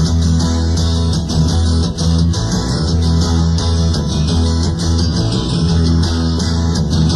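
Rock band playing an instrumental passage: strummed guitars over a bass guitar in a steady rhythm, with no singing.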